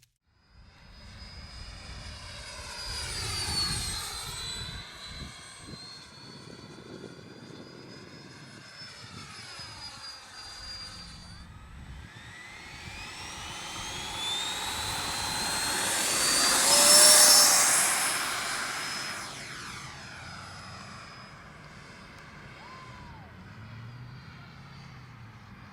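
Radio-controlled electric ducted-fan jet flying past twice, its high fan whine swelling and fading. On the louder second pass, about two thirds of the way in, the pitch climbs as it approaches and drops as it goes by.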